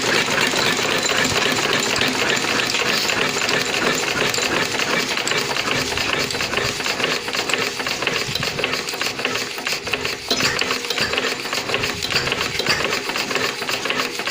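Old-model Field Marshall 12 HP Lister-type single-cylinder diesel engine running steadily with a fast, even knocking beat.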